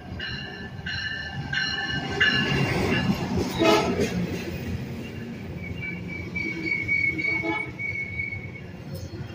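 Metrolink commuter train pulling into a station: a bell rings about twice a second for the first couple of seconds, then the MP36 diesel locomotive and bilevel coaches rumble past. A steady high-pitched wheel squeal rises from about six seconds in as the train brakes.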